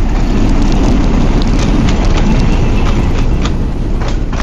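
Local passenger train running, heard on board: a heavy low rumble with irregular sharp clacks and knocks from the wheels and carriage.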